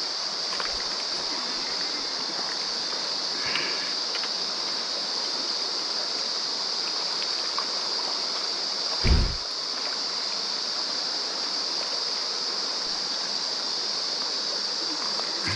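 Mountain stream water rushing steadily over rocks, with one dull low bump about nine seconds in.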